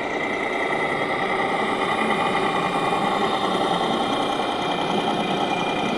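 Radio-controlled scale model truck running steadily, its engine sound idling.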